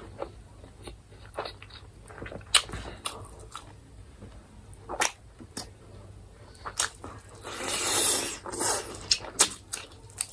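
Close-up chewing of chicken, with sharp wet mouth clicks and lip smacks scattered through, and a louder noisy stretch about eight seconds in.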